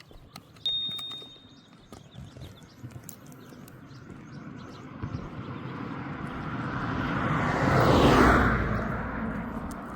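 A vehicle passes by, its noise swelling to a peak about eight seconds in and then fading. About a second in there is a brief high-pitched tone.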